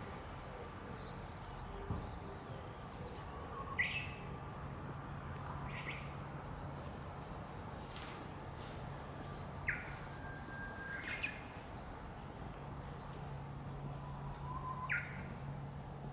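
Birds calling in short, sharp, falling notes every few seconds over a steady outdoor background hiss. A low steady hum fades in and out, and there is a single knock about two seconds in.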